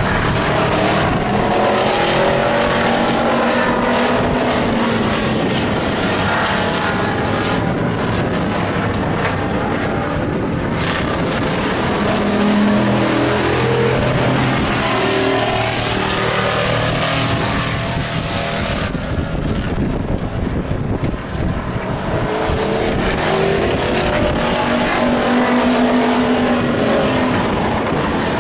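Several stock-truck race engines running hard around an oval track, their engine notes rising and falling as the trucks pass. A louder rush comes through the middle as the pack goes by close.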